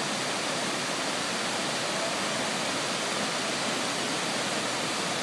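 Waterfall rushing, a steady, even sound of falling water.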